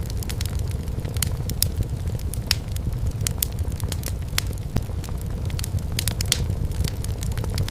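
Wood fire burning in a fireplace: a steady low rumble with frequent sharp, irregular crackles and pops from the burning firewood.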